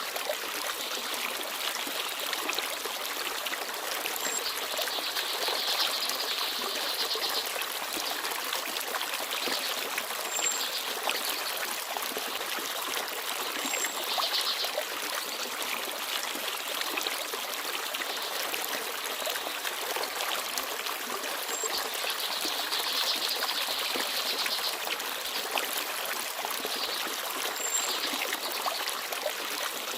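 Forest stream babbling steadily, with a few brief high chirps from small birds now and then.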